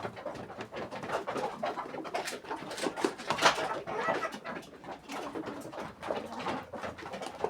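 A flock of chickens pecking at a mash of feed and chopped peels, many quick taps, with low clucking calls from the hens as they eat.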